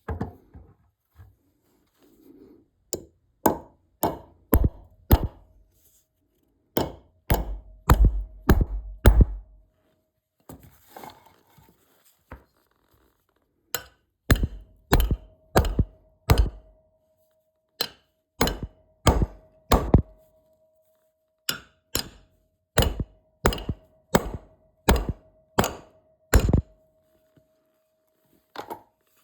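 Repeated sharp blows on wood, in runs of four or five strikes at about two a second with short pauses between runs.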